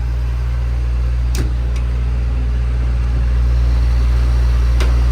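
An engine runs steadily with a constant low drone. Two short, sharp clicks sound over it, one about a second and a half in and one near the end.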